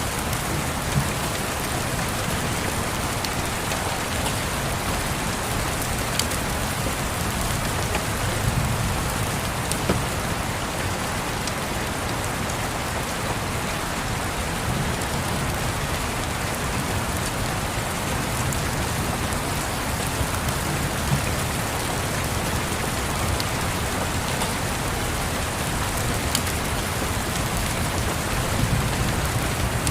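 Steady rain falling, with slow, low rumbling swells in the background, as of distant thunder, and a few faint scattered clicks.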